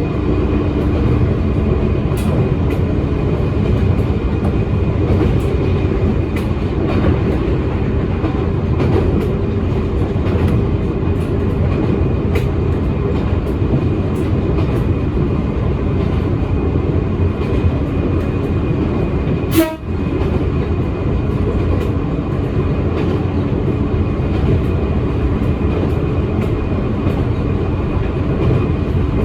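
Toyama Chiho Railway electric train running along the line: steady motor and gear hum over wheel-on-rail rumble, with scattered clicks from the wheels, and one sharp clack about twenty seconds in.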